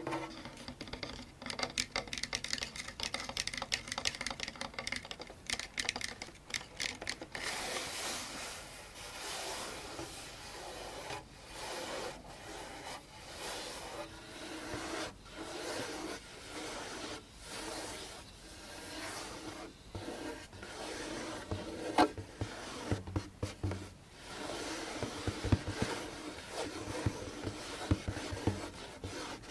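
Fingers scratching and rubbing on a djembe hand drum: rapid scratching for the first several seconds, then slower sweeping rubs, with a few sharp taps near the end.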